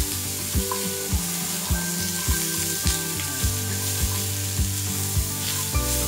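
Diced papaya sizzling in hot oil in a frying pan as it is lightly fried over a medium flame, turned now and then with a wooden spatula. Background music with a steady beat plays over it.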